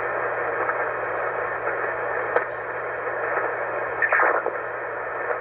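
Shortwave amateur radio receiver on the 20-meter band putting out a steady hiss of band noise while no station is transmitting. There is a short click about two and a half seconds in and a brief crackling burst about four seconds in.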